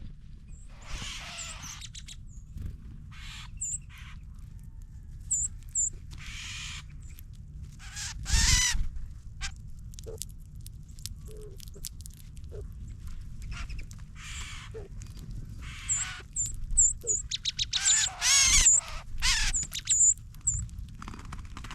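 Wild birds calling: many sharp, high chip notes, some in quick runs, and several harsh calls, the loudest about 8 and 18 seconds in. A low steady rumble runs underneath.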